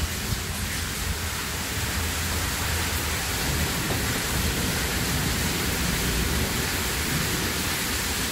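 Heavy rain pouring down steadily, an even rushing hiss with a low rumble under it.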